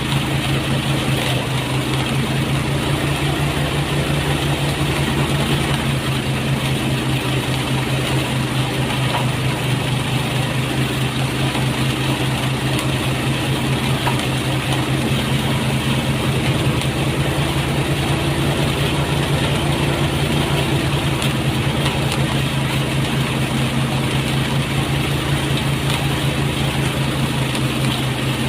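Engine-driven rice threshing machine running steadily, its engine and spinning drum giving a constant drone.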